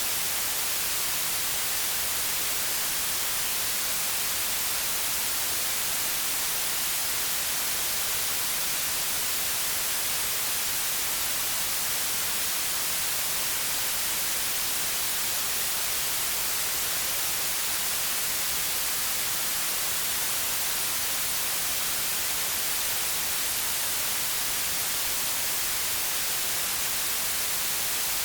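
Steady white noise: an even, unbroken hiss, brightest in the high end, with no changes or events.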